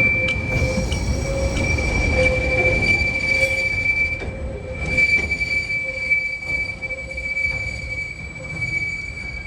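Freight train wagons rolling past with a steady, high-pitched wheel squeal held on one pitch, a weaker lower squeal alongside it, over the rumble of the wheels.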